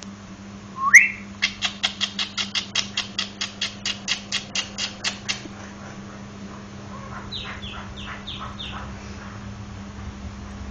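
A jalak nias (a myna) singing: a sharp rising whistle, then a fast run of about twenty short clipped notes at roughly five a second, then after a pause five fainter descending whistled notes.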